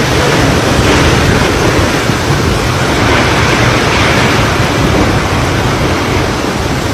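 Typhoon wind blowing hard, a loud steady rush with heavy rumbling buffeting on the microphone.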